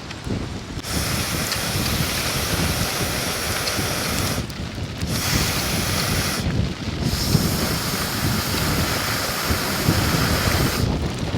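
Strong wind buffeting the microphone with a rumbling flutter, over a steady rushing hiss of rain and wind outdoors. The upper hiss cuts out abruptly twice, briefly.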